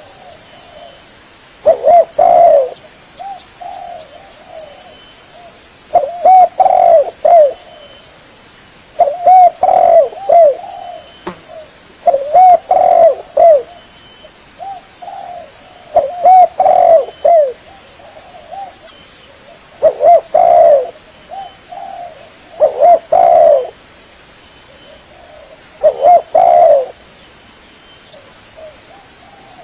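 Spotted dove (tekukur) cooing. It gives a phrase of several quick, bending coos, repeated about every three to four seconds, eight phrases in all.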